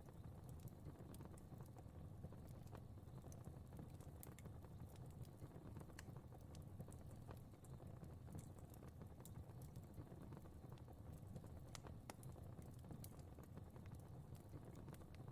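Fire crackling faintly: irregular small pops and snaps scattered over a low, steady rumble.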